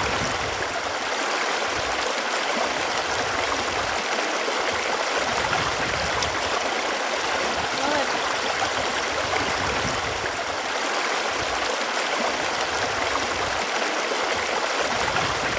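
Running water flowing steadily as an even rush, with a small gurgle now and then.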